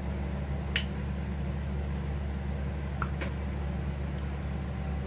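Someone chewing a mouthful of sattu filling to taste it: a few soft mouth smacks, about a second in and around three seconds in, over a steady low hum.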